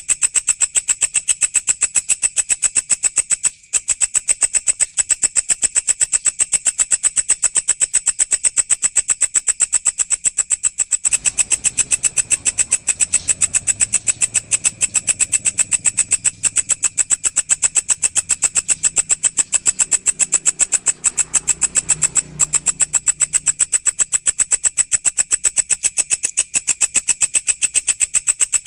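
A walang (grasshopper-type insect) stridulating in a fast, even, shrill pulsing that does not let up, with a high buzz on top. A faint low rumble joins in about eleven seconds in and fades out about twelve seconds later.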